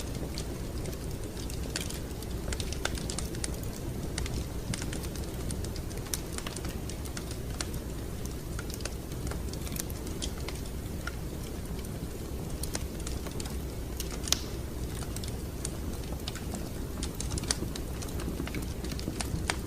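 Wood fire crackling in a fireplace: a steady low rumble of flame with irregular sharp pops and snaps, one louder pop about fourteen seconds in.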